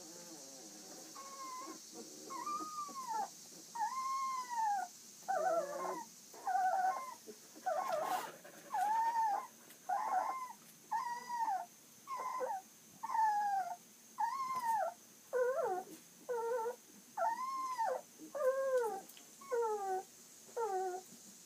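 Two-week-old puppies whimpering and crying in a steady string of short high cries, about one a second, each rising and falling in pitch.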